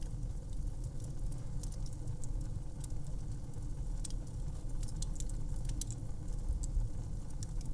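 Fireplace fire crackling: irregular sharp snaps and pops over a steady low rumble of the flames.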